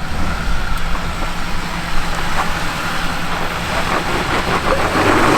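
Off-road truck engine working under load as the truck climbs a rock obstacle, growing louder near the end.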